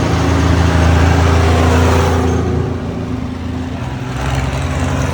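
Tractor engine passing close by, its note loudest in the first two seconds and then fading, with another engine swelling up about four seconds in.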